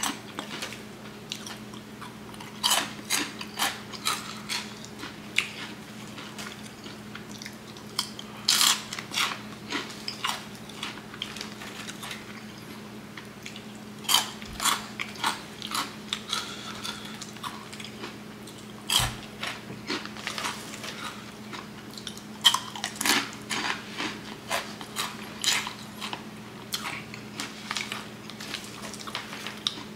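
Close-up crunching and chewing of Flaming Hot Cheetos, in irregular clusters of sharp crunches with short pauses between mouthfuls.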